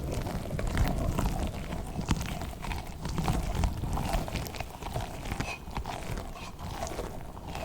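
Squishy toy slug squeezed and handled right against the microphone: a dense, uneven rubbing and squishing with many small scattered clicks.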